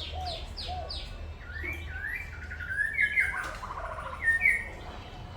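Songbirds calling and singing: a quick run of falling high notes, then varied warbling phrases with a short trill. The loudest notes come about three and four and a half seconds in, over a steady low hum.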